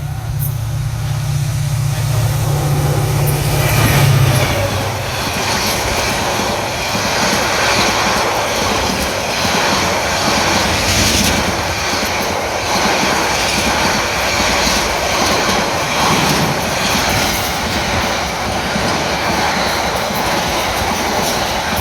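A diesel-hauled passenger train passing close by. The locomotive's engine drone is loudest about four seconds in, then the carriages roll past with a steady rushing clatter of wheels over the rails.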